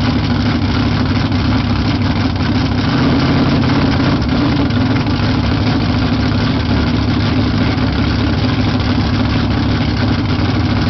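Camaro drag car's engine idling steadily.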